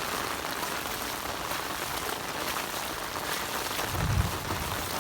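Heavy rain falling, an even hiss throughout. About four seconds in, a low rumble joins it.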